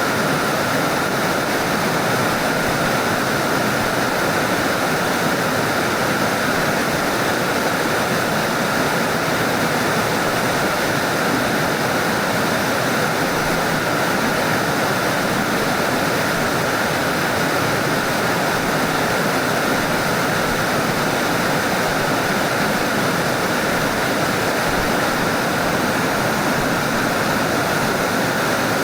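Mountain stream water rushing steadily over rocks and small falls.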